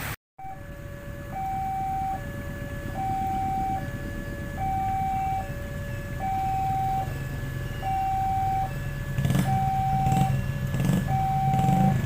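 Railway level-crossing warning alarm sounding a repeating two-tone signal, a higher and a lower note alternating, each held under a second, warning that a train is coming. A low rumble rises under it in the last few seconds.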